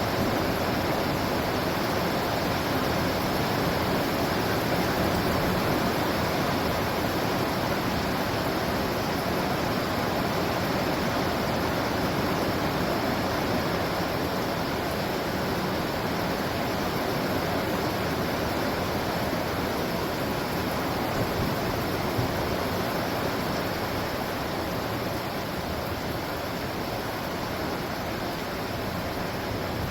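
Steady heavy rain of a thunderstorm downpour, an even, loud hiss that eases slightly toward the end.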